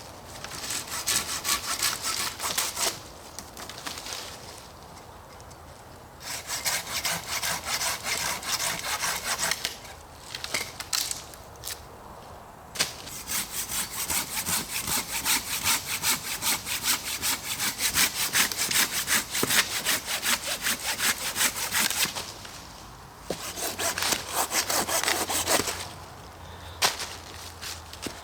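Silky Bigboy folding hand saw cutting through wood in runs of quick back-and-forth strokes, stopping several times for a second or more before starting again.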